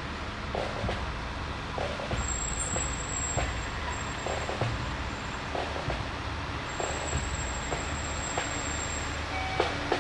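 Fire truck engine rumbling steadily as the apparatus rolls past, with scattered short clicks and a thin high whistle that comes and goes.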